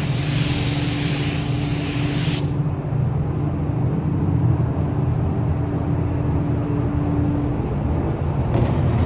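Paint spray gun hissing, its trigger let go about two and a half seconds in, with a short burst of spray near the end. A steady low machinery hum runs underneath.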